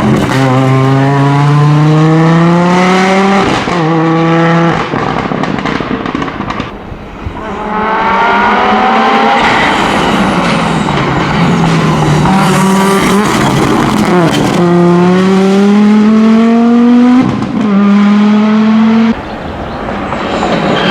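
Audi Quattro S1 rally car's turbocharged five-cylinder engine accelerating hard through the gears. The pitch climbs and drops back at each upshift. It lifts off and slows about five seconds in, then pulls hard again, twice more.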